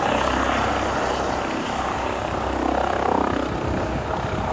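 Helicopter running steadily, its rotor and engine a loud, even noise.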